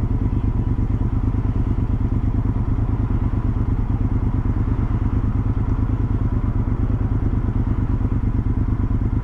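Motorcycle engine idling steadily while stopped, with a rapid, even pulsing beat.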